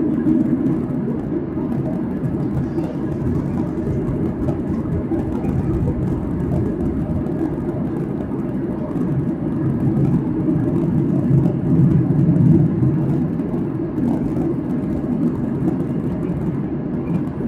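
Steady cabin drone of a Boeing 737-800 in flight, heard from a passenger seat: engine and airflow noise as an even low rumble-hum.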